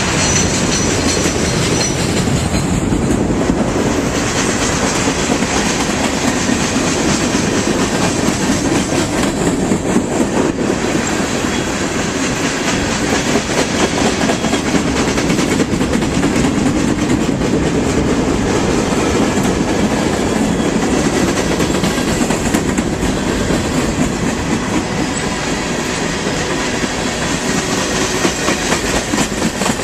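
A BNSF train's cars rolling past on the rails: a steady, loud rumble with a rapid clicking of wheels over the rail joints.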